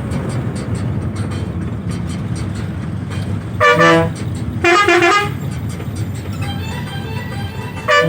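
Bus engine and road noise running steadily, cut by three loud blasts of a vehicle horn: two close together about halfway through and one more at the end.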